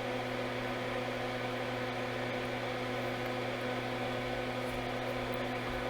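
Steady electrical hum with a light whir from running workbench equipment, holding several fixed pitches without change.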